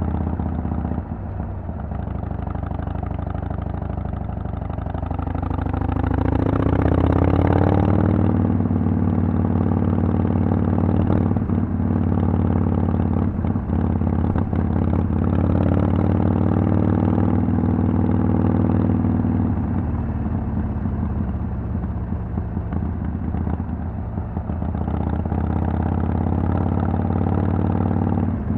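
Harley-Davidson Sportster XL883L's air-cooled V-twin running under way through Vance & Hines Twin Slash slip-on exhaust. Its pitch climbs under acceleration about a fifth of the way in and again around the middle, then eases off.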